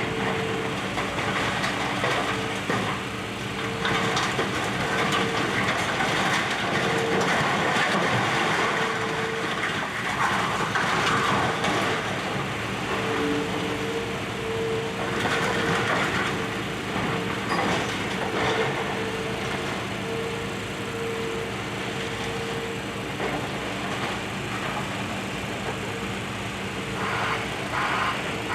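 Demolition excavator working: its diesel engine runs steadily under a whining tone that comes and goes, over crunching and cracking of building debris. Near the end a rhythmic pulsing tone joins in, about one and a half pulses a second.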